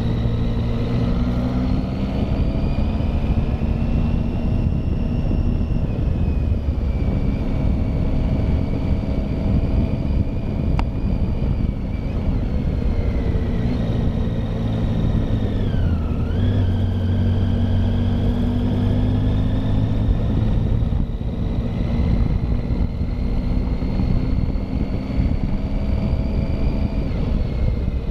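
Triumph Tiger motorcycle engine pulling steadily up a climb, its pitch slowly rising and falling with the throttle, with one brief dip in revs a little past halfway, as at a gear change or a roll-off.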